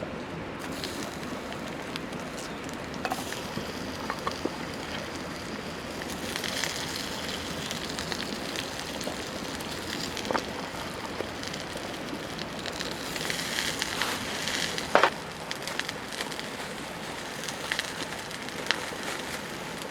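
Wood campfire burning with a steady hiss and scattered crackles and pops, the sharpest pop about fifteen seconds in.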